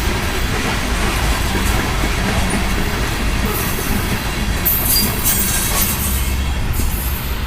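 Loaded coal train rolling past, a steady loud rumble and clatter of wheels on rail, with a few brief high-pitched squeals from the wheels in the second half.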